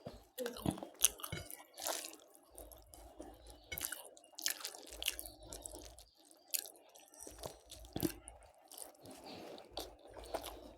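A person chewing food close to the microphone, with irregular crisp crunches and clicks between the chews.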